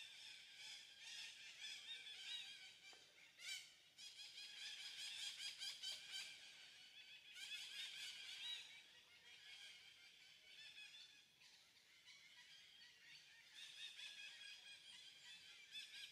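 Faint chorus of small birds chirping and twittering in high, wavering notes, with a fast rattling trill about four to seven seconds in.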